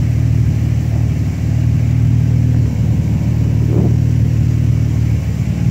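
Nissan 350Z's twin-turbocharged V6 idling steadily.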